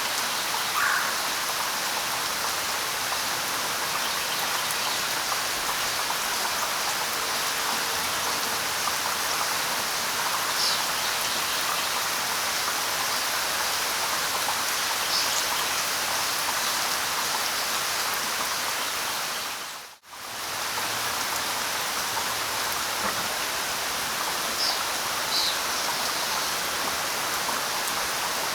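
Steady light rain, an even hiss of falling drops, with a few faint short high bird chirps. The sound dips out briefly about two-thirds of the way through.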